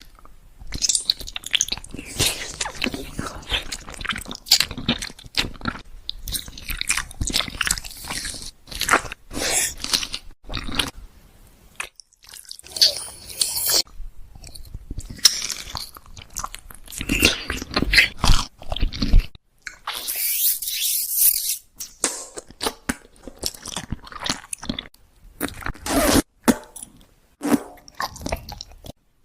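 Crunching and chewing of food, with many irregular bites and crunches broken by short pauses.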